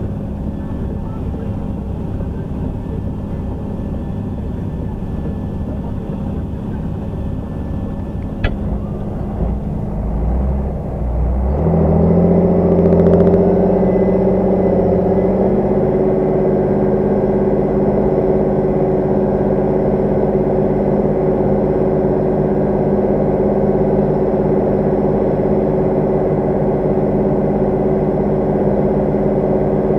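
Large tractor diesel engine running steadily; about ten seconds in the revs climb and it settles into a louder, steady run. A single sharp click is heard shortly before the revs rise.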